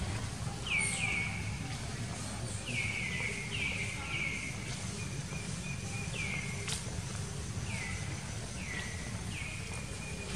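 A bird calling over and over, each call a short note sliding down in pitch, often two or three in quick succession, over a steady low background rumble.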